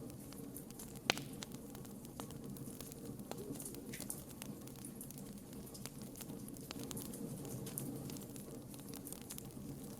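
Campfire burning: a steady low rush of flames with scattered crackles and pops, the sharpest about a second in.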